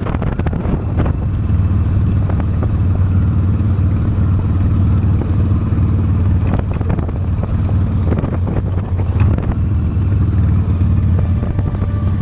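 Honda Steed motorcycle engine running steadily at riding speed, with wind noise on the microphone.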